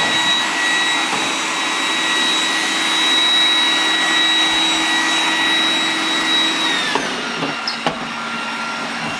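iRobot Roomba robot vacuum running while it climbs over a carpet edge: steady motor and brush noise with a high whine that drops in pitch and stops about seven seconds in, followed by a couple of knocks.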